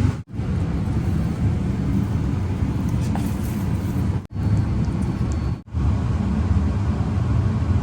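Steady low rumbling noise, broken by three brief dropouts.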